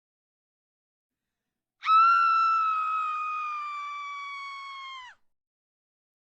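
A single long, high-pitched scream, held on one note for about three seconds. It starts suddenly about two seconds in, sags slightly in pitch as it fades, then cuts off.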